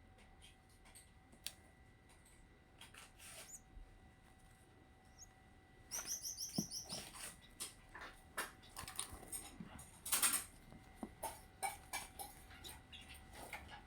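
Red canary chicks, about twenty days old, chirping and rustling. A quick run of high, thin peeps comes about six seconds in, then scattered scratching and shuffling, with a louder rustle around ten seconds.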